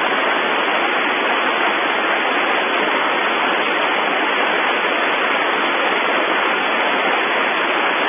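Steady hiss of radio static on an open air traffic control frequency, with no reply coming through from the called aircraft.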